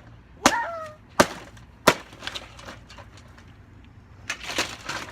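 Three sharp chopping strikes into a broken box fan, about 0.7 s apart, followed by lighter clattering and a rougher cluster of breaking noise near the end.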